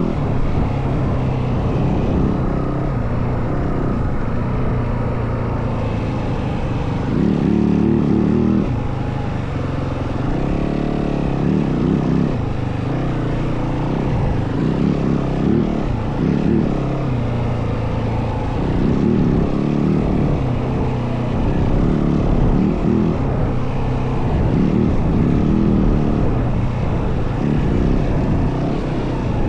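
Yamaha WR450F dirt bike's single-cylinder four-stroke engine being ridden hard off-road, its revs rising and falling again and again as the rider accelerates, shifts and backs off, with low rumbling noise underneath.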